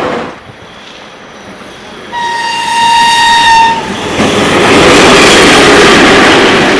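Train horn sounding one steady tone for about a second and a half, then the loud rushing noise of a train passing close by.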